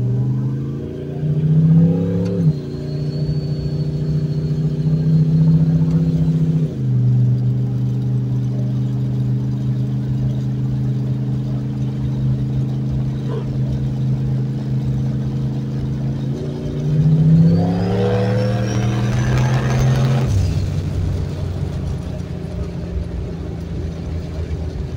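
Turbocharged 351 Windsor V8 in a Fox-body Mustang, heard from inside the cabin under hard acceleration. The revs climb and fall back twice in the first seven seconds as the C4 automatic shifts up, then hold steady at a cruise. Near the end the engine pulls again for about four seconds with a high whine rising alongside, then drops back.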